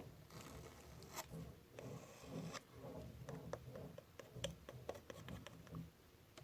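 Faint scratching and rubbing with scattered light clicks from a small cuticle tool being handled and scraped close to the microphone.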